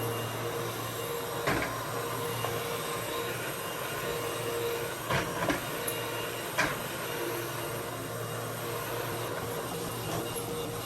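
Vacuum cleaner running steadily, with a few sharp knocks about a second and a half in and again around five to seven seconds in.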